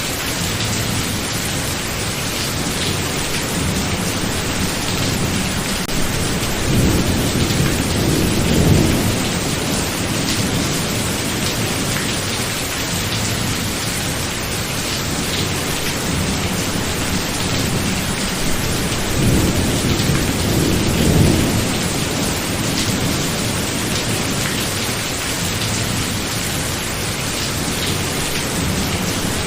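Heavy steady rain with thunder rumbling: two low rolls swell and fade, one about seven seconds in and one about twenty seconds in.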